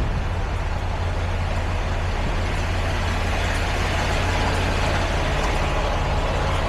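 Semi-truck diesel engine idling steadily, with a constant hiss of rain over it.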